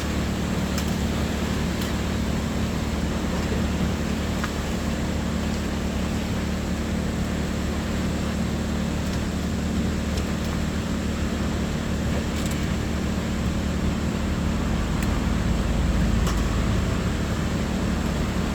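Steady low mechanical hum under an even noise haze, with a few faint clicks; the deepest part of the hum swells a little near the end.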